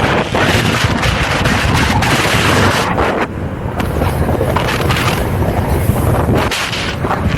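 Loud wind buffeting the microphone of a rider moving at speed on an electric unicycle: a heavy rumbling rush that surges and dips, easing briefly about three seconds in and again near the end.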